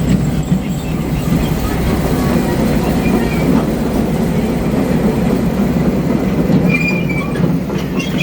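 Amusement-park ride cars rolling on a track: a steady, loud low rumble with faint squeaks from the wheels.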